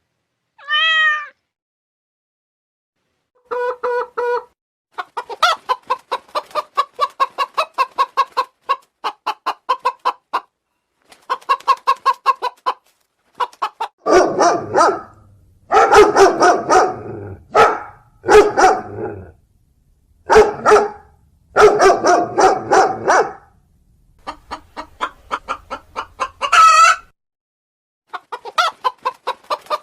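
Chickens clucking in rapid runs of short notes, with louder repeated calls and a rooster crowing through the middle. A single short call comes about a second in.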